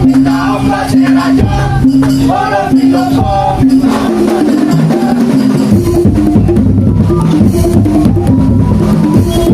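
Live percussion ensemble music: a wavering melody over a held low drone gives way, about four seconds in, to dense drumming with shakers and wood-block strokes.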